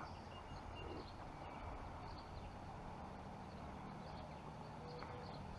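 Quiet, steady background noise with no distinct event.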